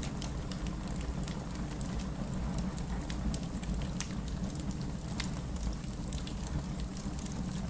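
Wood fire burning in a fireplace: many small irregular crackles and pops from the burning logs over a steady low rumble of the flames.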